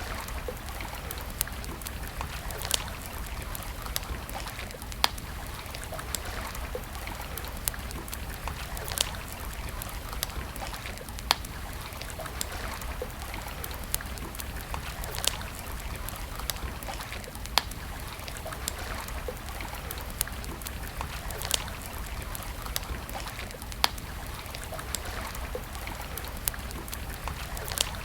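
Wood campfire crackling, with a sharp pop about every two seconds over a steady rush of flowing water.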